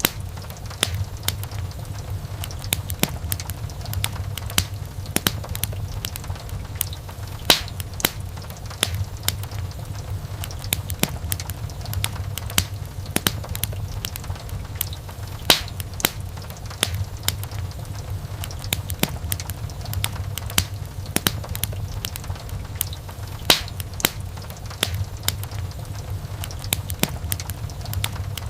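Wood fire in a fireplace crackling, with many small irregular snaps and a few louder pops, over a steady low rumble.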